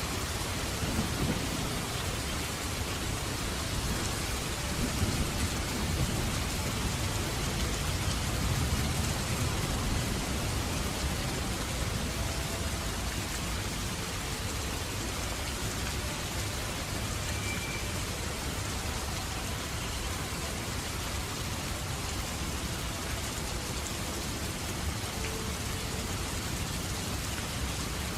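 Steady rain falling, with thunder rumbling low beneath it. The rumble is strongest in the first ten seconds or so and then eases off while the rain carries on.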